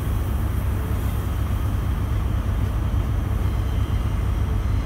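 Electric passenger train rolling slowly past along the platform as it arrives, a steady low rumble with an even haze of noise.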